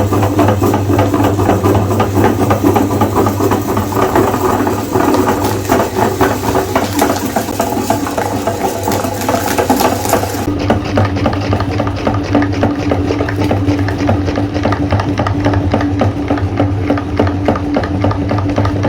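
Electric meat grinder running with a steady motor hum and a dense, rapid rattle as it grinds Oreo cookies.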